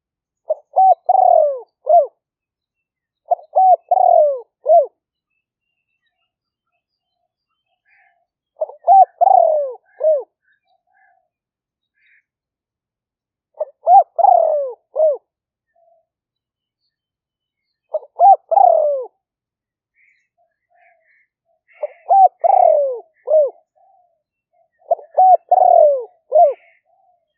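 Spotted dove cooing: seven phrases of several quick coos, each ending in a falling note, repeated every three to five seconds. Faint chirps of small birds fall in the gaps.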